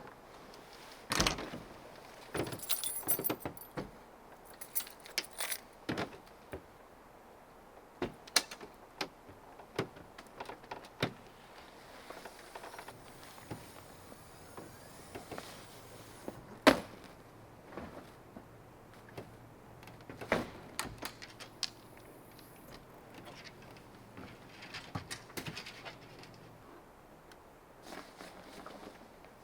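Camping gear being handled by hand: scattered clicks and knocks, with light metallic jingling early on and one sharper knock past the middle.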